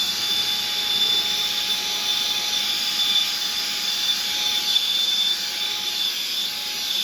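Saker 3-in-1 handheld vacuum's brushless motor running steadily with the long blowing pipe fitted, a rush of air over a constant high-pitched whine.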